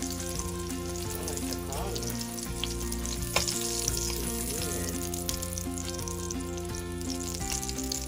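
Hot dog slices sizzling in hot oil in a stainless steel frying pan while they are picked out with metal tongs, with one sharp click of the tongs against the pan about three and a half seconds in. Background music plays underneath.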